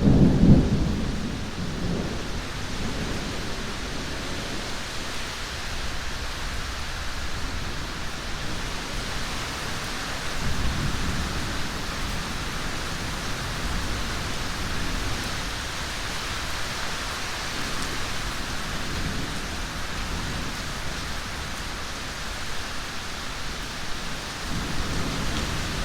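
Thunderstorm: steady heavy rain, with a loud thunderclap about half a second in that rumbles away over the next few seconds, then softer low rolls of thunder about ten seconds in and again near the end.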